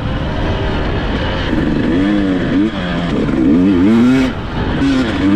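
KTM 300 XC-W TPI two-stroke dirt bike engine revving as it is ridden, its pitch rising and falling again and again with the throttle.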